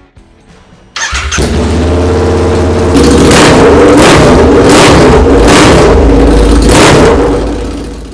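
Royal Enfield Interceptor 650 motorcycle's parallel-twin engine starting about a second in, running loud and being revved several times, then fading out near the end.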